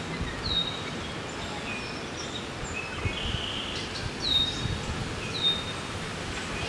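Birds calling outdoors: a short high whistle that drops in pitch and levels off, heard three times, among scattered fainter chirps, over a low uneven rumble.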